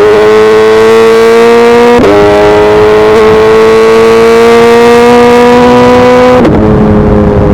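Suzuki Hayabusa's inline-four engine pulling under load, its pitch climbing slowly, with a short break in the note about two seconds in. Near the end the note changes suddenly and the pitch starts to fall, as the throttle is rolled off.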